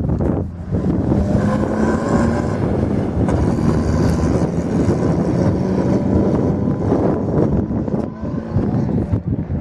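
Motorcycle engines running steadily, with some wind noise on the microphone.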